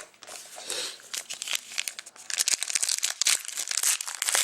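Crinkling of a hockey card pack's foil wrapper as it is torn open and handled. It gets louder about halfway through.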